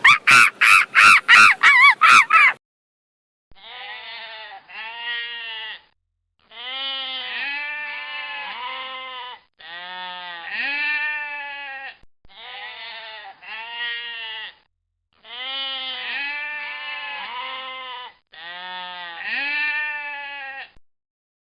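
Loud, rapid calls for the first two seconds or so, then, after a short pause, repeated bleating: calls that rise and fall in pitch, coming in groups of several with brief gaps between.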